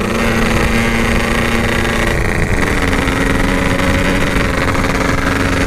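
Yamaha RX-King two-stroke engine running steadily while riding, its pitch stepping up slightly about two and a half seconds in.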